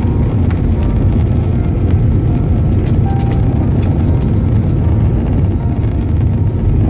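Airbus A320neo cabin noise during landing: a loud, steady low rumble inside the passenger cabin.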